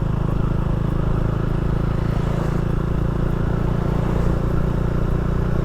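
Can-Am Ryker three-wheeled motorcycle's engine running at a steady cruise while riding, its pitch and level holding even.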